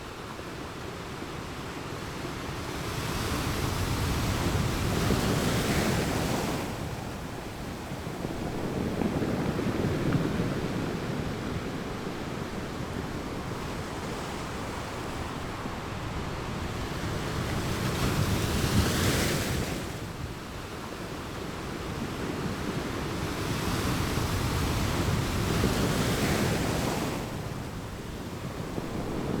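Ocean surf breaking on a beach, a continuous wash that swells and ebbs as about four waves come in, each building for a few seconds and then falling away sharply.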